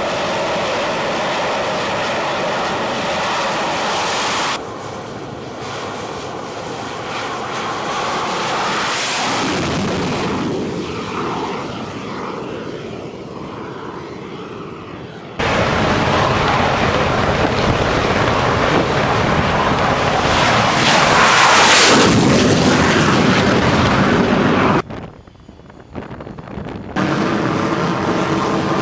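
Jet aircraft engine noise spliced from several clips, cutting abruptly between them. It swells to its loudest about two-thirds of the way through, then dips sharply for a moment before resuming.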